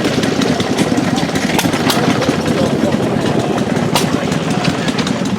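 An engine running steadily at idle, with rapid, even firing pulses and a few sharp clicks.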